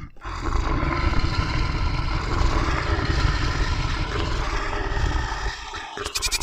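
Stampede sound effect: a dense, low rumble of many pounding hooves with clatter, breaking off shortly before the end.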